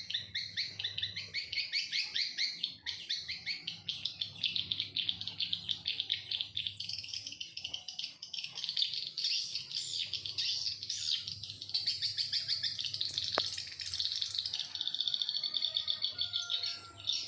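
Birds chirping and twittering rapidly and without a break, a dense stream of high calls.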